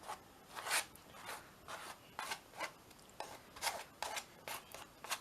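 A piece of card scraping gesso across a paper-collaged canvas in repeated short strokes, about two to three a second.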